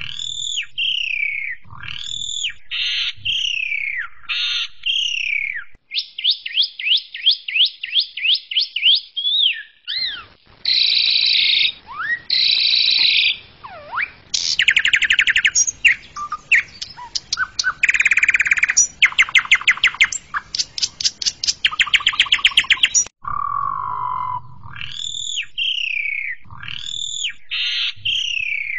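Asian pied starling (jalak suren) singing a loud, varied song: repeated whistled notes that fall in pitch, a quick run of rising chirps, harsh buzzy notes, then long rapid rattling trills, before the falling whistles return. The song switches abruptly between passages in places, as if spliced.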